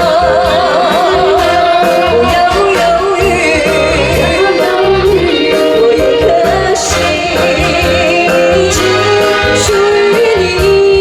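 A woman singing a Mandarin pop ballad with a live band, the voice wavering with vibrato over a steady drum beat. She holds one long note near the end.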